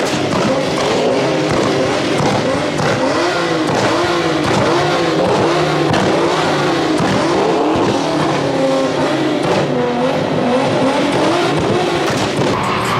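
Truck engines revving over and over, their pitch rising and falling continuously.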